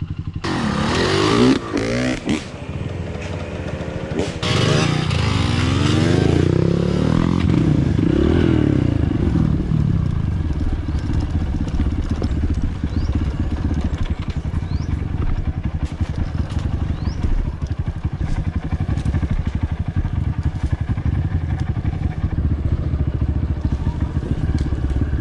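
Trail dirt bike engine revving hard, its pitch rising and falling repeatedly for the first several seconds, then settling to a steady lower running note for the rest.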